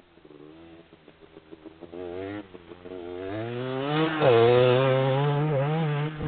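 Motocross bike engine, first in a few short throttle blips, then revving up hard under acceleration and running at high revs, loudest a little past four seconds in.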